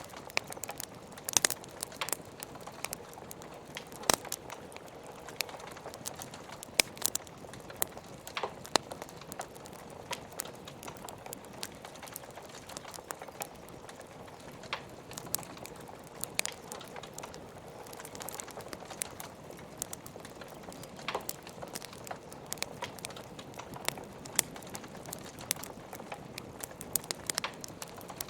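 Burning logs in a fireplace crackling, with frequent sharp pops at irregular intervals over a steady rain hiss.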